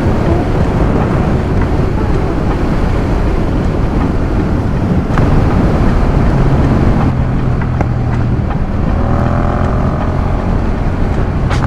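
Motorcycle engine and exhaust running steadily under way, with wind rushing over the microphone.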